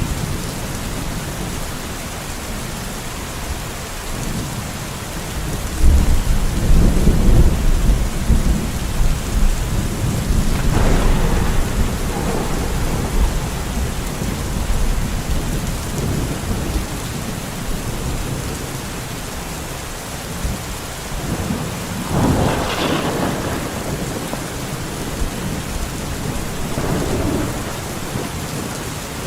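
Steady, heavy rain falling on a forest, with rolls of thunder: a long low rumble starting about six seconds in, and another sharper peal about two-thirds of the way through.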